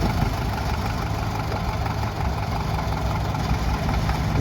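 Engine of an original vintage Caterpillar tractor idling steadily, burbling away.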